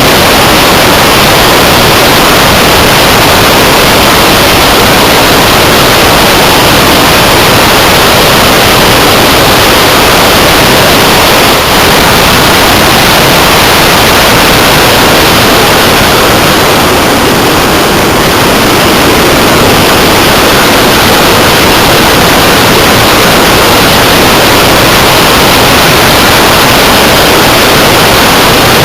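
Loud, steady rush of wind noise on the onboard camera's microphone of a Multiplex Blizzard RC hotliner in flight, with a slight dip about 17 seconds in.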